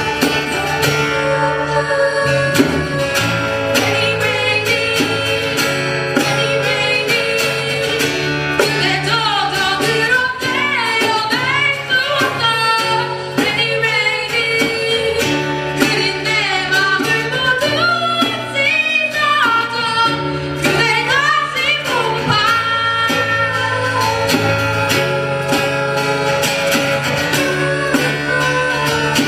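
Live acoustic guitar band playing, with a woman's voice singing wordless, sliding vocal runs through the middle. The guitars carry on alone near the end.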